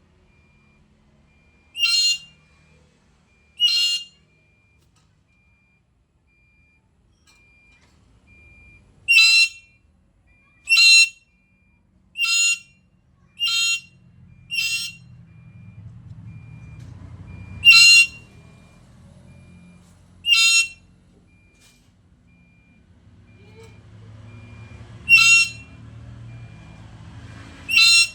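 Black-capped lory calling: about eleven short, loud, pitched calls, each well under half a second, spaced irregularly with gaps of one to five seconds.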